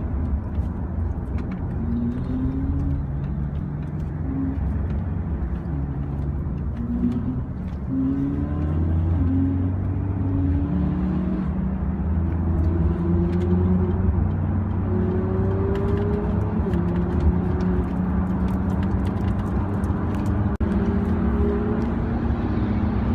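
A car engine accelerating hard through the gears. Its pitch climbs, drops back at each upshift and climbs again, over a steady low road rumble.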